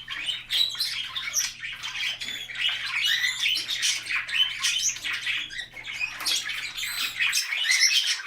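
Several budgies chattering, with rapid overlapping chirps and squawks. A faint low hum stops about seven seconds in.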